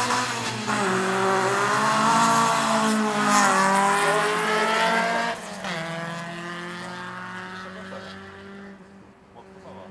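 Hatchback race car's engine accelerating hard past, its revs climbing with a gear change about two and a half seconds in. The sound drops off abruptly about five seconds in and fades as the car pulls away down the straight.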